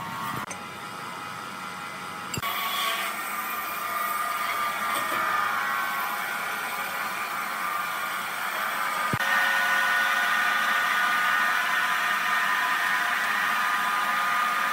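Sawmill machinery running with a steady whine, changing abruptly about two and a half seconds in and again about nine seconds in, louder after each change.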